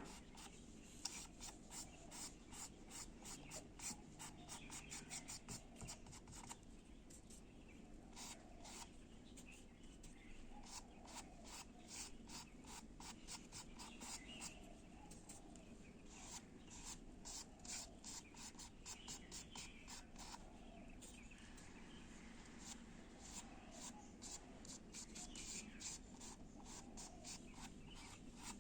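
Faint, scratchy strokes of a paintbrush working acrylic paint on canvas, coming in quick runs of short dabs and scrapes.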